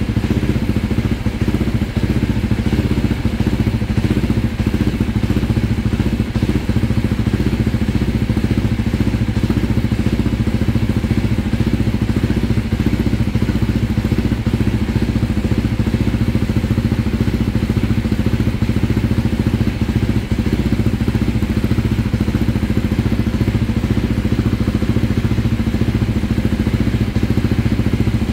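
KTM 390 Duke's single-cylinder engine idling steadily, with no revving.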